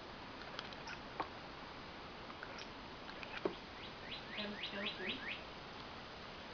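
Domestic cat chattering at a bird: a quick run of about six high chirps, each falling in pitch, a little past halfway through, after a couple of faint clicks.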